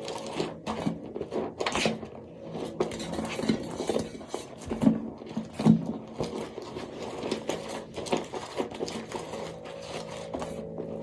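Soap being handled for ASMR: a dense, irregular run of small crackling clicks and scraping, with a few louder snaps, over a steady low hum.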